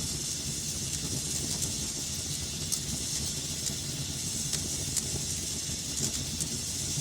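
Wood fire burning in a fireplace: a steady hiss and low rumble with scattered sharp crackles and pops.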